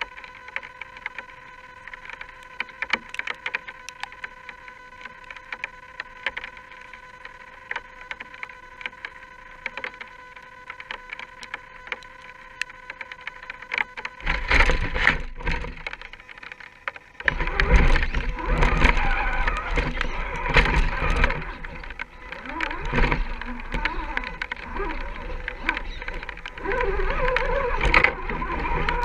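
Electric drive of a radio-controlled scale crawler: a steady high buzzing whine with scattered ticks, then about halfway through a much louder rough, scraping noise with a low rumble takes over, briefly dropping away before returning.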